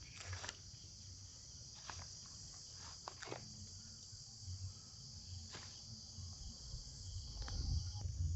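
Steady high-pitched insect chorus of crickets trilling, with a few scattered sharp clicks and a low rumble that grows louder near the end.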